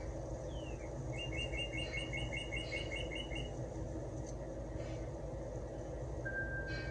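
Bird chirping: a short falling whistle, then a rapid run of about a dozen even chirps lasting a couple of seconds, and near the end one held whistled note. A steady low hum runs underneath.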